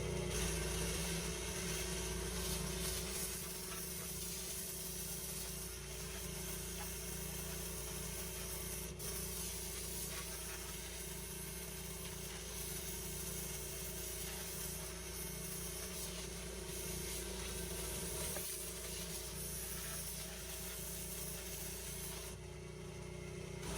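Petrol-engined pressure washer running steadily under the constant hiss of its high-pressure water spray.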